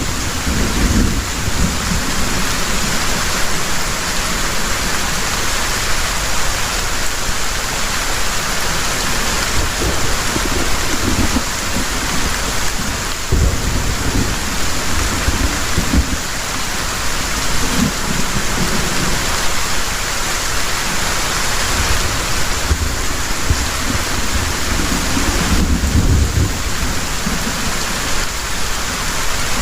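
Heavy rain pouring steadily, with low rolls of thunder rumbling on and off, strongest near the start and again near the end.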